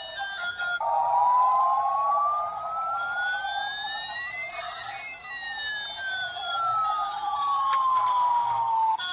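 Electronic siren-like sound effect from a toy's sound chip: thin tones slowly sweeping up and down in pitch over several seconds, over a steady hiss.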